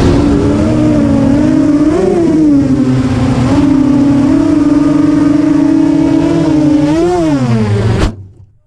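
FPV quadcopter's brushless motors on 4S whining steadily. The pitch swells up briefly about two seconds in and again near the end, then the sound cuts off suddenly.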